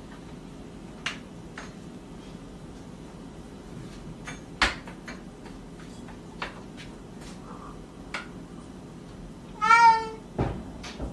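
Scattered light knocks and clicks, then a cat meows once, about half a second long, near the end, followed by a couple of dull thumps.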